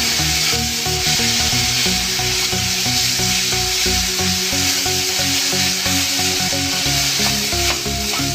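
Onion, ginger-garlic paste and ground spices sizzling steadily in hot oil in a kadai, stirred and scraped with a wooden spatula while the masala fries to cook off its raw taste. Background music plays underneath.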